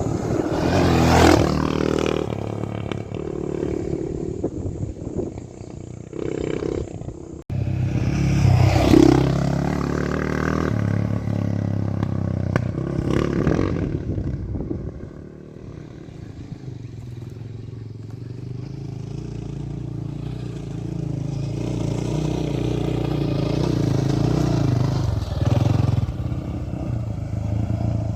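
Honda XR650R single-cylinder dirt bike engine running on rough dirt roads, its note rising and falling with the throttle, with clatter and scrape from stones and the bike. The sound cuts off abruptly about seven seconds in and picks straight up again, then builds slowly toward the end.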